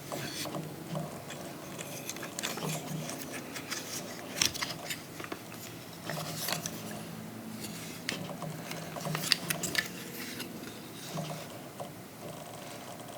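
Hands handling a Transformers action figure and its plastic packaging: irregular sharp plastic clicks, taps and rustling.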